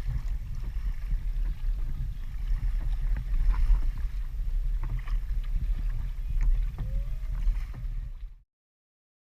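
Wind rumbling on the microphone on an open kayak at sea, with a few faint clicks; the sound cuts off abruptly to silence near the end.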